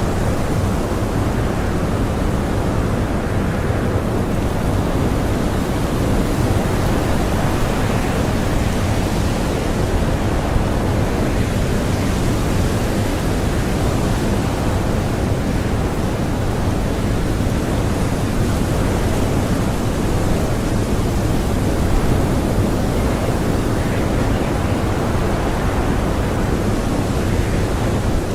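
Strong blizzard wind blowing steadily, a dense low rush with only slight swells and no single gust or whistle standing out.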